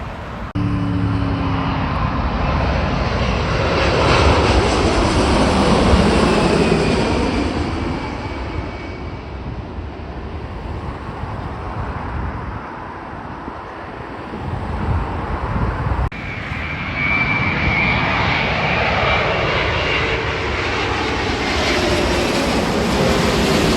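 A jet airliner passing, loudest about five seconds in, with a high whine that falls in pitch as it goes by. After a sudden break about 16 seconds in, another jet's engine noise builds again with a steady whine toward the end.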